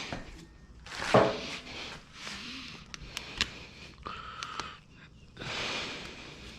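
Hand work on a motorcycle during an oil change: scattered clicks, knocks and short scrapes of tools and parts being handled.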